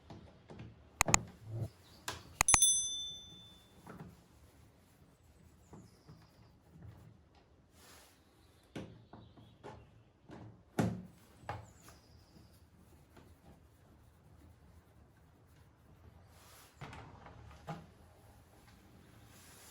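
Scattered clicks and knocks of tools and mower parts being handled, with a short metallic ring, like a small metal part or tool striking, about two and a half seconds in.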